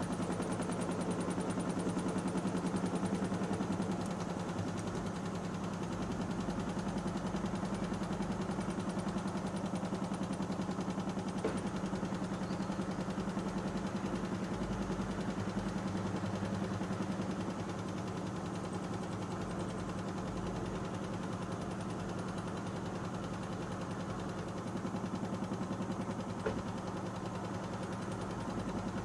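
Panasonic NA-147VB2 front-loading washing machine running, its inverter motor turning the drum with a steady hum and a fast, even rattle. Two short clicks come about a third of the way in and again near the end.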